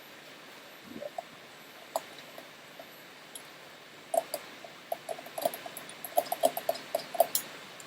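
Light clinks and taps of kitchen utensils: a few scattered taps, then a quicker run of short clinks in the last few seconds.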